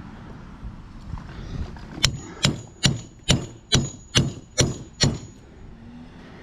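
Hammer blows on metal while an electric motor is torn down for its copper. Eight sharp, evenly spaced strikes about two and a half a second, each with a faint high ring, start about two seconds in.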